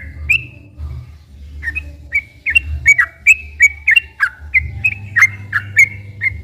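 Yellow-vented bulbul (trucukan) singing a long, fast run of short whistled chirps, about three a second, after a brief pause near the start, over a low steady hum.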